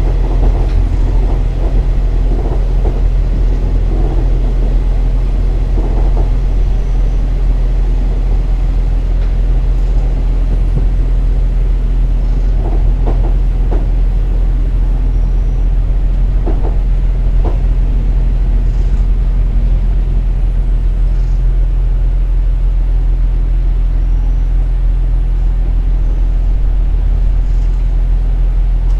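KiHa 47 diesel railcar heard from on board while running: a steady low engine drone with wheel and rail rumble, and a few brief sharper sounds in the middle.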